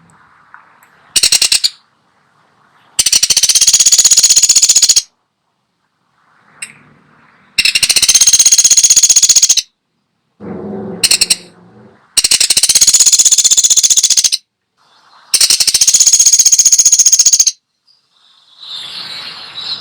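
Woodpecker giving rapid high-pitched rattling calls: a short burst near the start, then four long rattles of about two seconds each with pauses between, and another starting at the very end. A softer, lower sound comes about halfway and again near the end.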